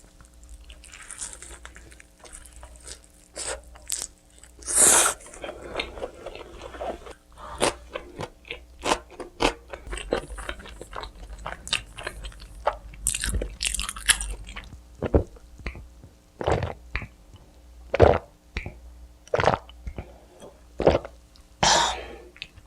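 Close-miked eating of pizza: irregular bites and chewing with sharp crunching sounds, a few louder bites standing out.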